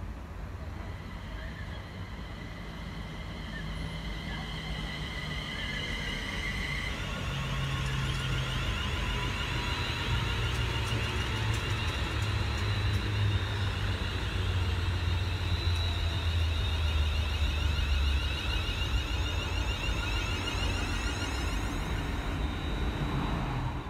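A train passing close by: a low rumble that builds over the first several seconds and stays loud through the middle, with steady high whining tones over it and a slowly falling tone partway through. It cuts off suddenly near the end.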